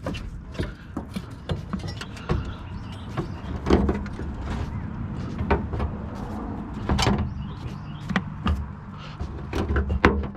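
Steel pry bar clanking and scraping against the rear strut and suspension parts of a 2009 Honda Accord as the old strut is levered out. The knocks are irregular, with a low steady hum underneath.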